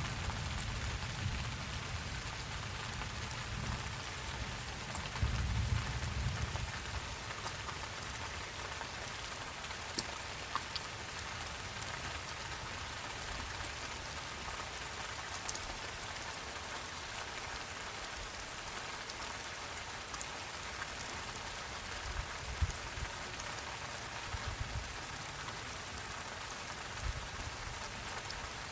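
Steady rain falling, with scattered sharp drop ticks. There are low rumbles near the start and again about five seconds in.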